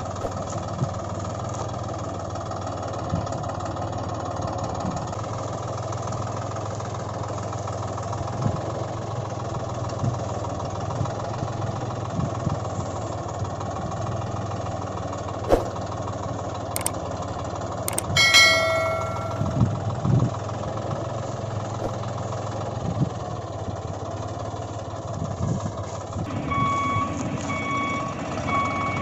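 Toy construction vehicle sounds: a steady engine-like drone with occasional knocks, a single bell-like ding about two-thirds of the way through, and reversing beeps, about one a second, starting near the end.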